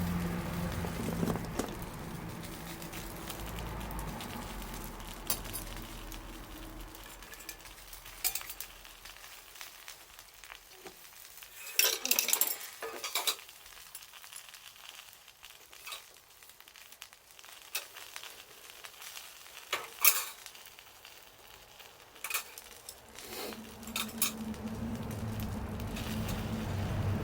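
Cooking over a campfire: a light sizzle with scattered sharp crackles and clinks of cookware. A low rumble fades out over the first several seconds and builds again near the end.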